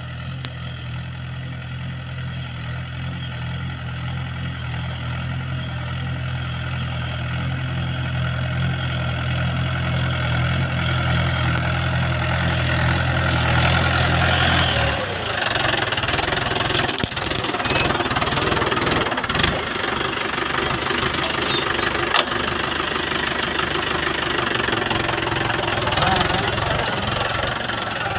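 Tractor engine running steadily with a low hum; about halfway through the hum gives way to a rougher, noisier sound that grows a little louder.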